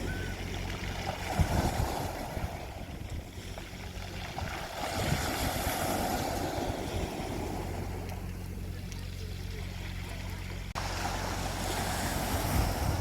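Sea waves washing onto a beach, swelling and fading about every five seconds, with wind buffeting the microphone in low thumps and a steady low hum underneath. The sound drops out for an instant about two-thirds of the way through.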